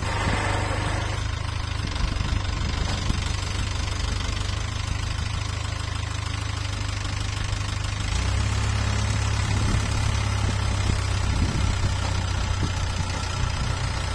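Heavy diesel engine of a working machine running steadily with a low drone, which grows louder about eight seconds in.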